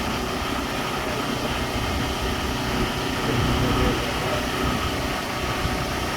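Steady low mechanical hum of an idling engine, with a low rumble that swells slightly around the middle.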